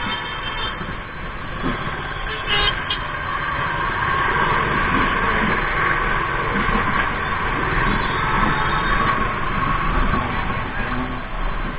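Busy road traffic: a steady mix of vehicle engines and tyre noise, with a short horn toot about two and a half seconds in.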